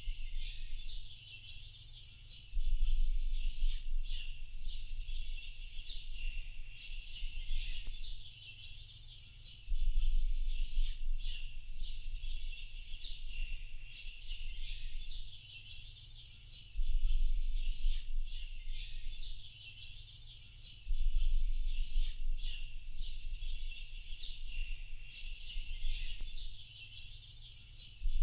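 Dense chorus of small birds chirping and twittering without a break. A low rumble comes in suddenly four times and lasts a few seconds each time.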